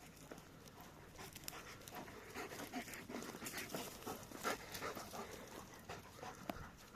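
A dog panting, with irregular short clicks mixed in; the sound is busiest through the middle of the stretch.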